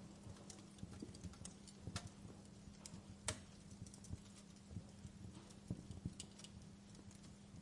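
Wood fire crackling: irregular small pops and snaps of burning logs, the sharpest about three seconds in, over a faint steady low hum.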